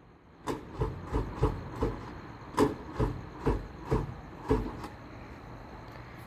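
A run of about ten light knocks or thuds, roughly two a second, that stops a little past the middle, leaving a faint steady background.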